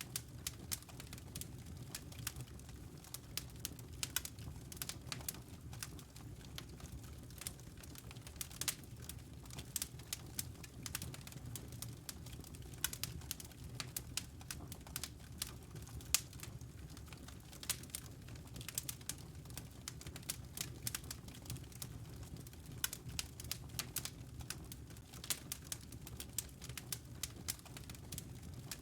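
Wood fire in a fireplace crackling: many irregular sharp pops and snaps over a steady low rumble from the burning fire.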